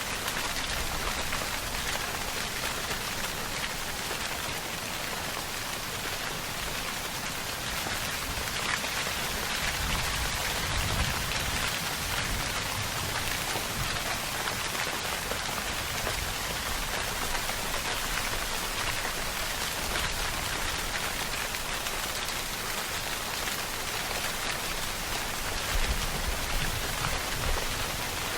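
Steady rainfall, an even dense hiss of many drops, with brief low swells about ten seconds in and again near the end.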